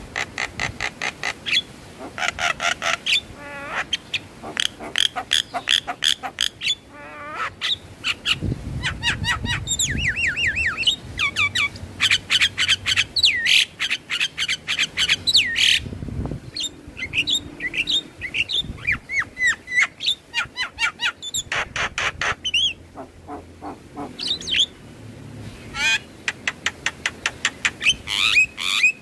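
Javan myna (jalak kebo) singing: a fast, varied run of chattering clicks and whistled notes that slide up and down.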